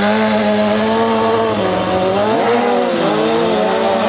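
Stunt motorcycle engine held at high revs, its pitch dipping and rising a few times as the throttle is worked.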